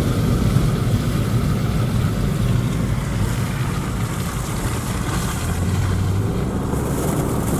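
Citroen Saxo being driven, its engine running at a steady low hum under the rumble of tyre and road noise.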